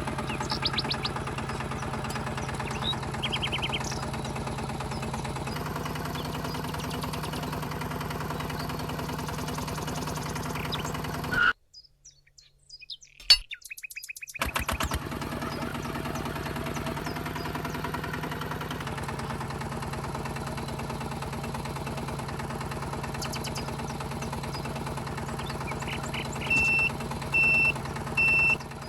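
A small motor running steadily with a fine rapid ticking, cutting out for about three seconds midway. Short bird chirps come early, and three short high beeps sound near the end.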